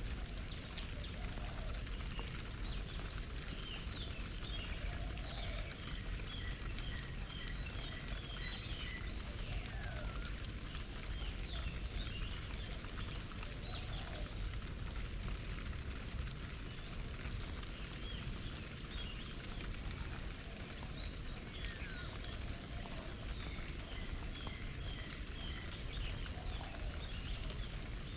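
Steady patter of water, like drops or splashing at a garden bird bath, with small birds calling over it: two runs of rapid, evenly spaced short chirps and a few quick falling whistled notes.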